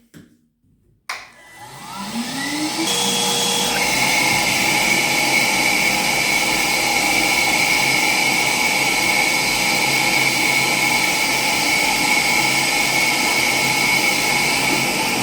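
Parkside PWDA 20 Li A2 cordless wet and dry vacuum switched on with a click about a second in, its motor spinning up with a rising whine and then running steadily at full speed while sucking water out of a bucket through its hose.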